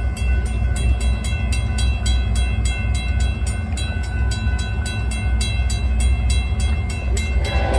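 Florida East Coast Railway train running by with a heavy, steady low rumble, a steady high-pitched squeal on top and regular clicking about five times a second. Music comes in near the end.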